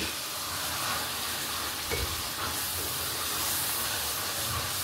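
Onion-tomato spice masala sizzling steadily in oil in an aluminium kadai, with a wooden spatula starting to stir it near the end.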